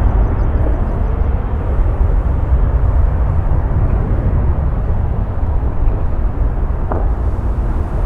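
Jet airliner engines, a loud steady rumble.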